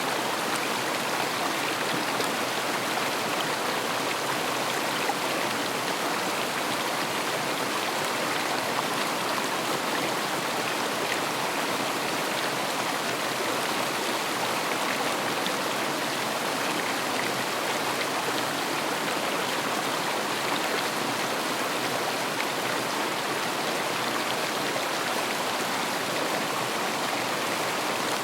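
River water flowing and splashing over stones, a steady, even rush with no breaks.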